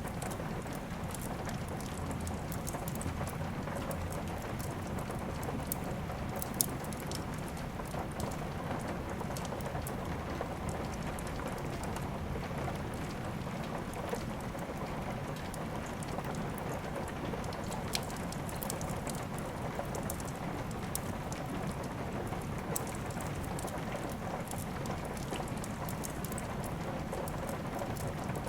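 Steady rain with the scattered small crackles of a wood fire, and a couple of louder sharp pops.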